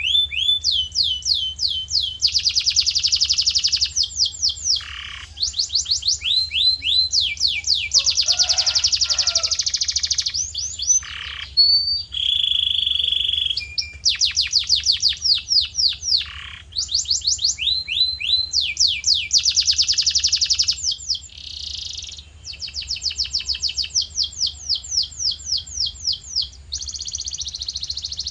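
Male canary in full song: fast trills of one repeated syllable after another, each run lasting a second or a few, with short breaks and a single held whistle about twelve seconds in.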